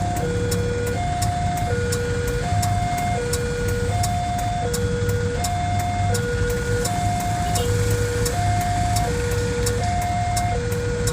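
Railway level-crossing warning alarm sounding its repeated two-tone chime, a high note then a low note, about one pair every second and a half. Under it is the steady low hum of idling vehicle engines.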